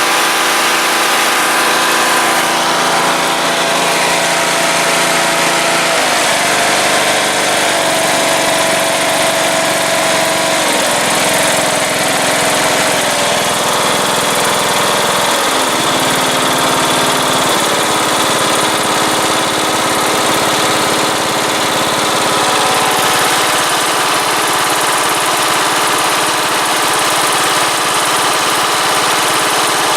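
20 HP Kohler Courage engine on a riding mower running steadily, its note shifting in speed a few times, about six, eleven, fifteen and eighteen seconds in.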